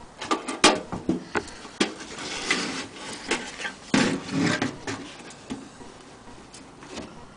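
Vintage Mary Lou toy washing machine being handled: a run of clicks, knocks and scraping rubs, busiest in the first five seconds and thinning out after.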